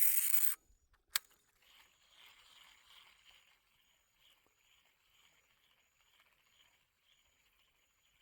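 Baitcasting reel's spool spinning fast as line pays out on a cast, cutting off abruptly about half a second in, followed by one sharp click about a second in. After that only faint sounds remain.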